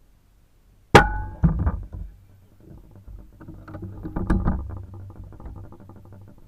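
A single loud rifle shot about a second in, followed half a second later by a second, weaker crack. After it come low wind rumble on the microphone and scattered rustling and clicks.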